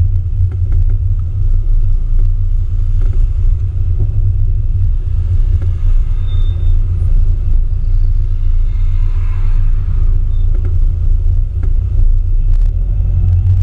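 Classic Mini's engine running at low speed in slow-moving traffic, heard from a camera mounted on the car as a steady low rumble.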